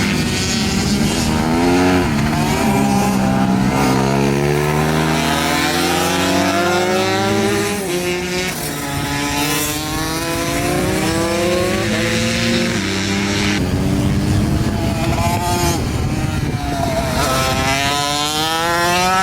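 Pit bike engines revving hard on track, the pitch climbing through each gear and dropping back at the shifts and braking, again and again, at times with more than one bike heard at once.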